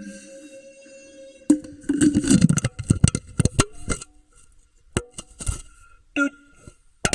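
Knocks, scrapes and rattles on a Pringles can, heard from inside the tube: a dense cluster from about a second and a half in to four seconds, then a few scattered sharp clicks.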